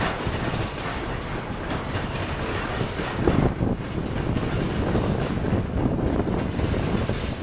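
CSX freight train's empty flatcars rolling past close by, steel wheels running over the rails in a steady rumble with irregular knocks, a little louder about halfway through.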